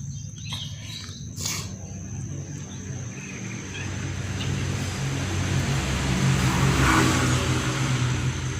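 A motor vehicle engine passing by, its low hum growing louder to a peak about seven seconds in, then easing off.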